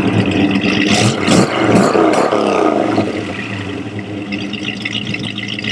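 V8 car engine revving several times, its pitch rising and falling, then running more steadily in the second half.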